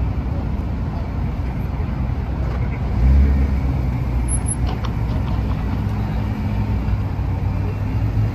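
Car engine idling: a low, steady hum that swells briefly about three seconds in.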